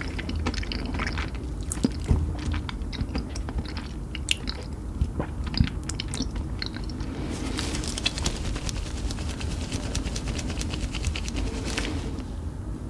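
Close-miked chewing and biting of spicy chicken, with scattered sharp crunches, then a dense stretch of crackly crunching from about seven seconds in that stops near the end.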